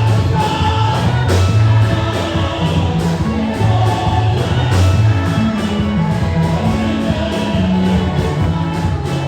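Loud gospel praise music: a band with a heavy, moving bass line and steady drum beats, with singing over it.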